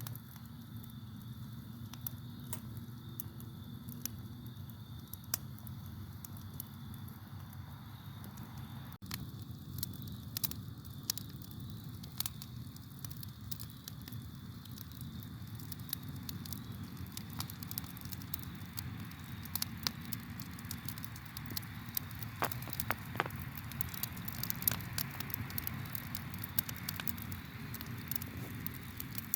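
Campfire burning: the wood crackles and pops in sharp snaps over a steady low roar of flame. The snaps come more often from about nine seconds in.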